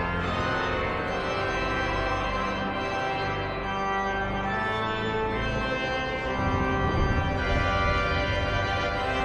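Organ playing held chords that change every couple of seconds.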